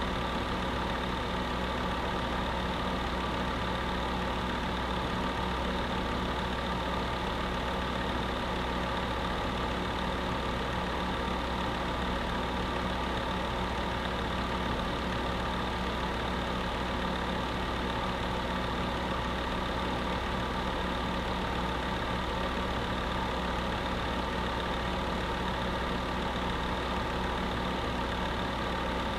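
Space heater running steadily: a constant fan whoosh over a low electric motor hum with a few fixed tones.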